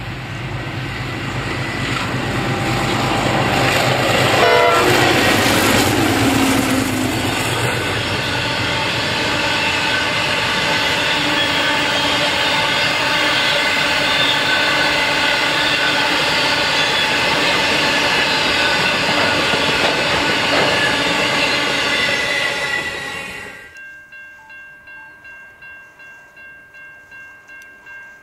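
Diesel locomotives hauling a ballast train approach and pass close by, followed by a long rake of loaded ballast hopper wagons rolling past with steady wheel noise. About 23 seconds in this cuts off abruptly and gives way to the quieter ringing of level crossing warning bells, about three rings a second.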